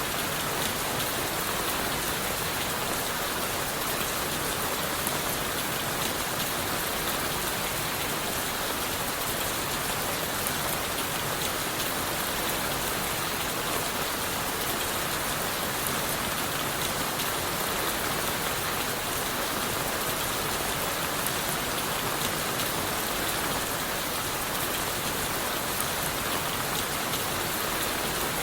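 Steady rain falling on leaves, wood and the forest floor, an even hiss of many fine drops with no letup.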